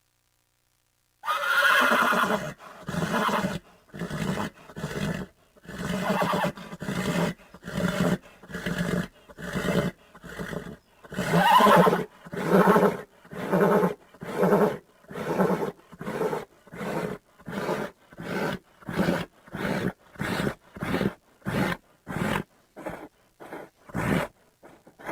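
A horse neighing in a long series of short calls, about two a second, coming quicker and shorter toward the end. The calls begin about a second in.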